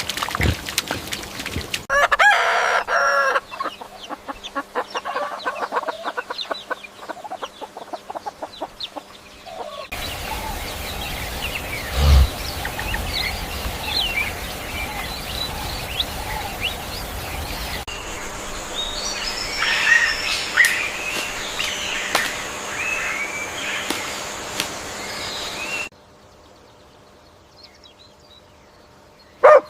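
Chickens calling and clucking in a series of separately cut clips, with a short pitched, crow-like call about two seconds in and many quick chirping calls over a steady noisy background through the middle. The last few seconds are much quieter, with one brief call just before the end.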